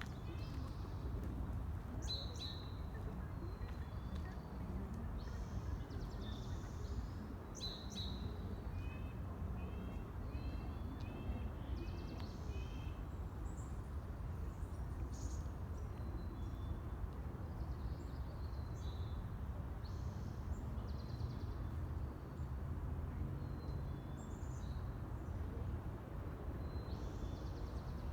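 Small wild birds chirping and calling intermittently, with a quick run of repeated short notes near the middle, over a steady low background rumble.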